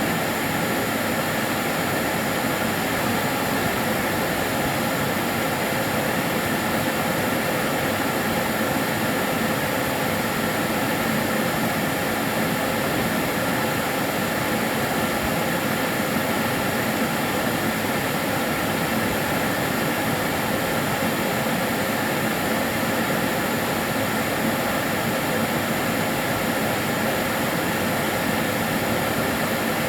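Karcher DS 6 Premium water-filter vacuum cleaner running steadily, a constant motor whine over rushing air.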